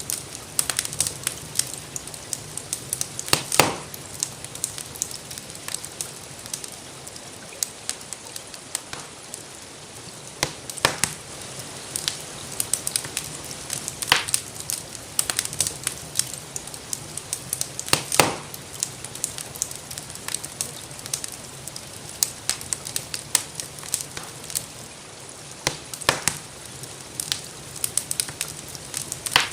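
Wood fire crackling in a fireplace: a steady run of small crackles with a handful of louder pops, over a gentle, even hiss of rainfall.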